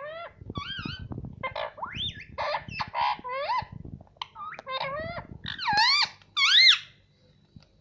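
Indian ringneck parrot calling: a run of short, sharp squawks and chattering notes that bend up and down in pitch, ending in two longer, louder calls about six seconds in.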